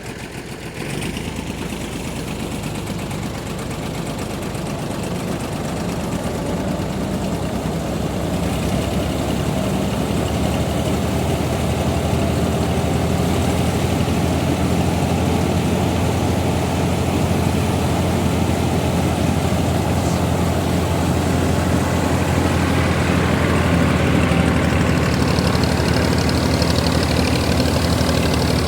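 Tractor engine running a wheat thresher with a steady low drone, growing louder over the first ten seconds or so and then holding; a high whine joins near the end.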